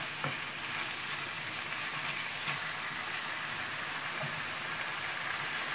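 Chicken pieces sizzling steadily in oil in a nonstick wok, with a light tap of a wooden spatula against the pan near the start and a couple of fainter ones later.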